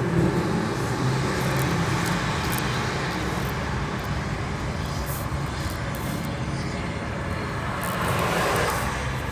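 Car driving on a city road: steady engine hum and tyre and traffic noise, swelling briefly near the end as another vehicle passes.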